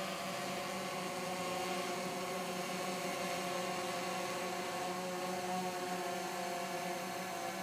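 Steady, even motor hum holding a constant pitch throughout, with no change in speed.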